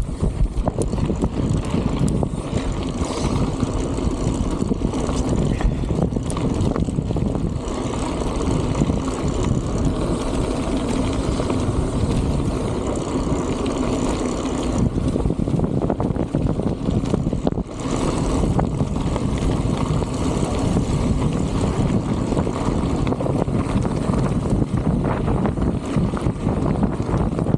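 Strong wind buffeting the microphone of a camera carried on a moving bicycle: a loud, steady low rumble, with a brief lull about seventeen seconds in.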